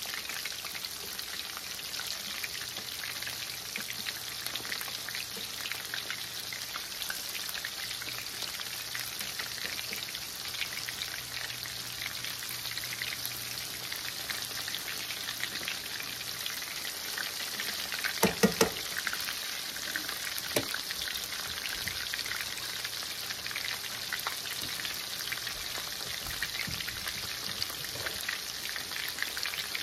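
Battered chicken strips frying in hot oil in a stainless steel skillet: a steady crackling sizzle. A quick cluster of knocks comes about two-thirds of the way through, and a single knock shortly after.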